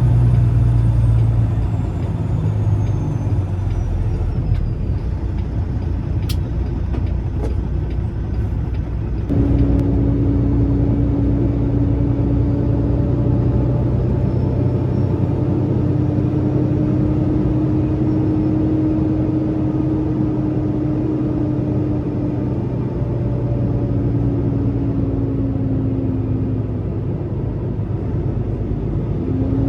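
Loaded Peterbilt semi truck's diesel engine running steadily on the road, with a few sharp clicks about six to eight seconds in. About nine seconds in, a steady hum joins the drone and it gets a little louder.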